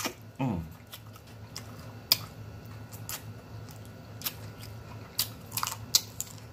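A person chewing fried chicken, with scattered sharp lip smacks and mouth clicks and a short falling hum about half a second in.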